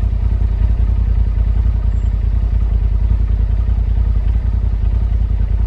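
Polaris RZR side-by-side's engine running steadily at low revs, a low, even, rapidly pulsing drone with no revving.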